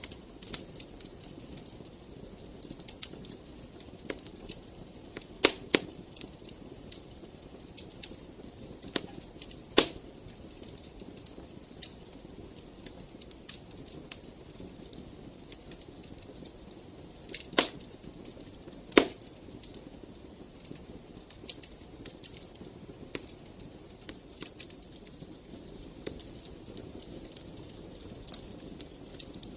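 Wood fire in a fireplace crackling, with sharp pops and snaps at irregular intervals over a low, steady rush of flame. The loudest snaps come about ten seconds in and as a pair a little past halfway.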